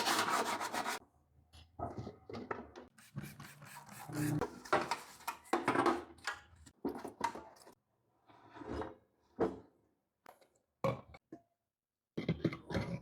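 A power tool runs and cuts off about a second in. Then come irregular rubbing and scraping strokes with pauses between them, typical of working rust off a microwave's interior by hand.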